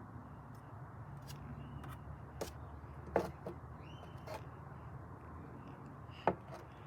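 Steady low background hum with a few scattered sharp clicks or knocks, the loudest about three seconds in and again near the end.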